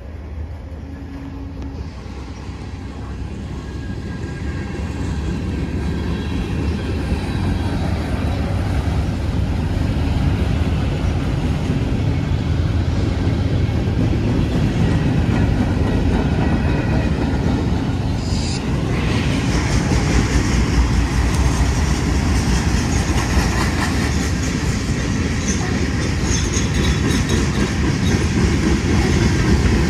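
Manifest freight train rolling past, its cars' wheels clicking over the rail joints. The rumble builds over the first ten seconds and then holds steady, growing brighter and hissier about two-thirds of the way through.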